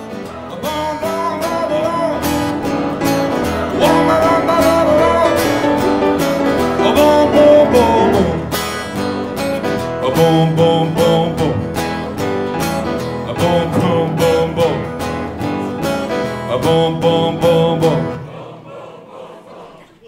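Live band music with guitar, a steady beat and a voice singing, stopping about two seconds before the end and ringing out.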